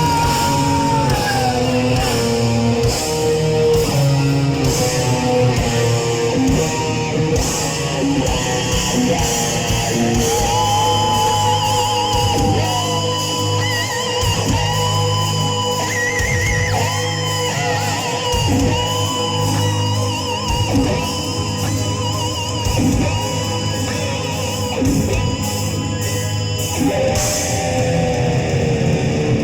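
Heavy metal band playing an instrumental section: a lead electric guitar plays sustained, bent notes with wide vibrato over distorted rhythm guitar, bass and drums. Near the end a note slides steadily down in pitch.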